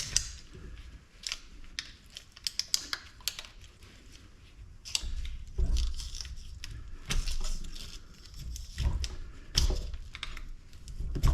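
Hands and tools picking and tearing at the rubbery potting compound around a light fixture's circuit board: irregular small clicks, scrapes and crinkles, with a few heavier handling knocks.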